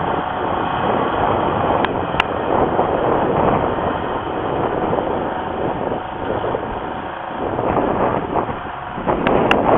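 Tractor engine running steadily under load while working with a plow, with wind buffeting the microphone and a couple of sharp clicks.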